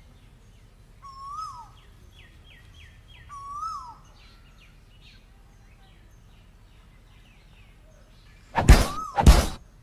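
Asian koel calling: two rising-then-falling calls about two seconds apart, with fainter chirps from other birds. Near the end come two loud, sudden thumps.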